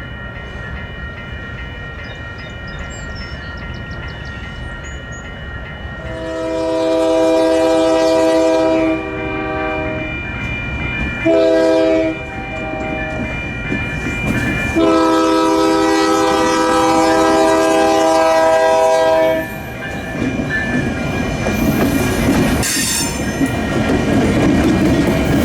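Diesel locomotive air horn sounding the grade-crossing signal: a long blast, a second quieter one, a short one and a final long one, over the engine's rumble. After the last blast the train's wheels and cars grow louder as it rolls closer.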